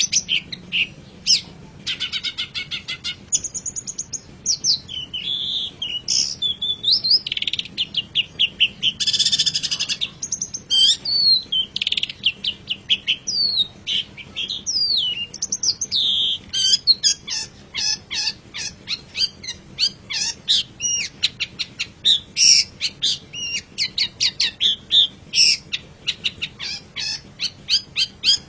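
Long-tailed shrike (cendet) singing a varied, high-pitched song: slurred whistles and buzzy trills, turning about halfway into fast runs of short clipped notes.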